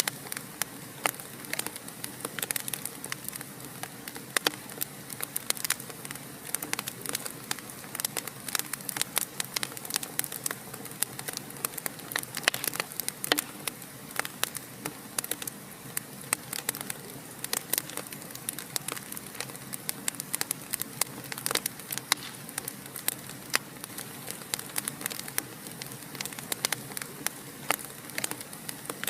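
Fire in a fireplace crackling: a steady hiss with dense, irregular pops and snaps, some of them much louder than the rest.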